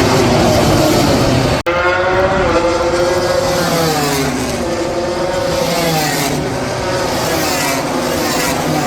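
Several MotoGP racing motorcycles running at high revs at once, their engine notes sliding up and falling away as they pass. The sound cuts out for an instant about one and a half seconds in.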